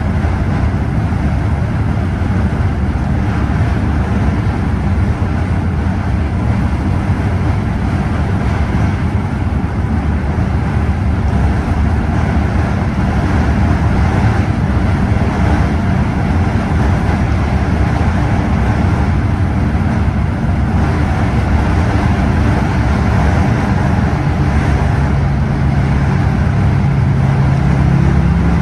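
Scania OmniExpress coach on the move: a steady deep engine drone with road and tyre noise. Near the end a steadier engine note stands out as the revs change.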